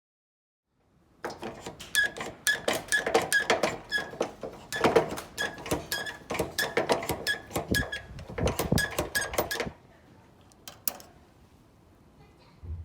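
Metal parts of a front-door latch being worked repeatedly: a run of sharp metallic clicks and clacks, about three a second, each with a short ring, for about eight seconds. A few faint clicks follow near the end.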